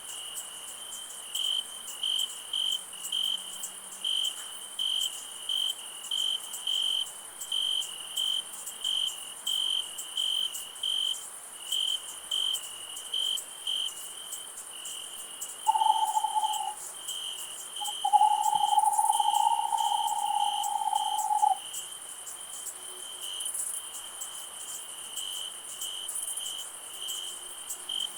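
Night insect chorus: crickets chirping in a steady pulse, about one and a half chirps a second, over a higher insect hiss. About halfway through, an owl hoots a short note and then a long, steady note of about three seconds, louder than the crickets.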